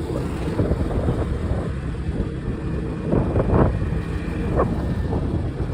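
Motorbike ride: steady low engine and road rumble mixed with wind buffeting the microphone, with a louder burst about three and a half seconds in.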